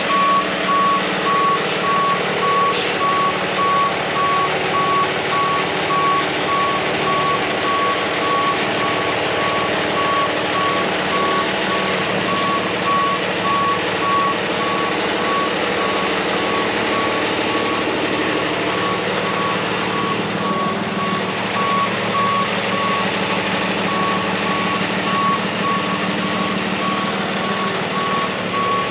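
Truck backup alarm beeping steadily at one pitch as the truck reverses, with its engine running underneath.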